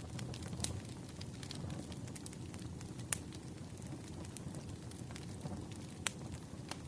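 Campfire burning: a low steady rumble of flames with sharp wood crackles and pops scattered irregularly through it, the loudest pops about three seconds in and about six seconds in.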